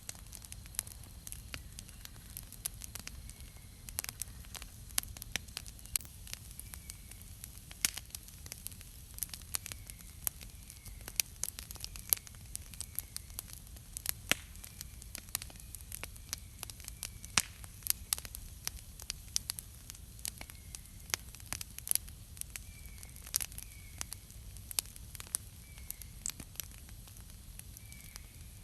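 Wood campfire crackling, with many irregular sharp pops and snaps over a low, steady rush of the flames.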